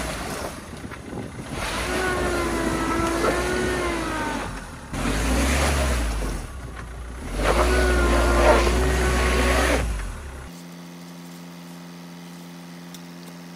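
Hyundai hatchback stuck in mud, its engine revved hard in three bursts of a few seconds, with a wavering whine as it tries to drive free. After these the sound drops suddenly to a steady low hum.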